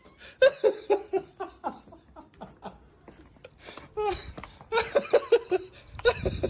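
A person laughing in two runs of quick bursts, the first about half a second in and the second from about four seconds.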